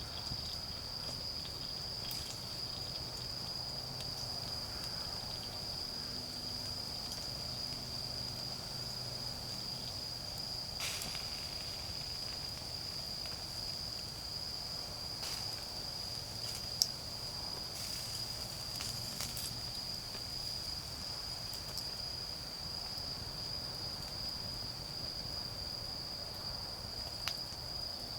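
Autumn crickets trilling in one steady, high, unbroken note, with occasional sharp snaps and short rustles over it, the loudest a single snap about 17 seconds in.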